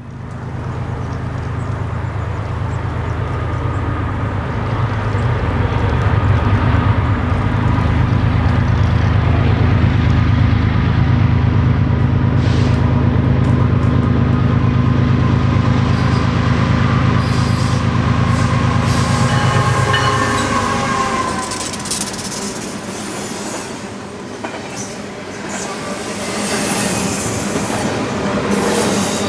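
Diesel freight locomotive BNSF 6392 passing close by under power, its engine drone heavy for about the first twenty seconds. Then the engine sound falls away, and the railcars of the short freight train roll past with wheel clatter and squealing.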